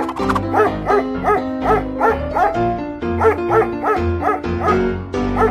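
Background cartoon music with a bass line, over a quick series of small dog yips, about three a second, that carries on through the whole stretch.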